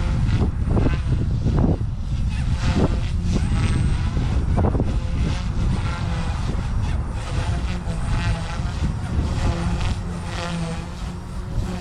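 Blade 150S micro RC helicopter's electric motor and rotor whining overhead, the pitch rising and falling as it manoeuvres, with heavy wind rumble on the microphone.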